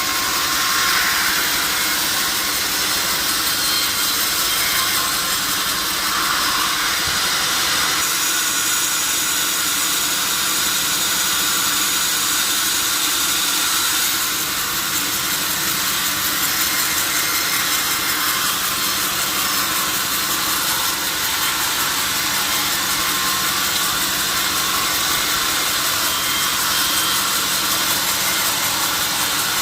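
Powered sawmill saw cutting through a log, running steadily: a continuous high rushing noise with a low motor hum underneath.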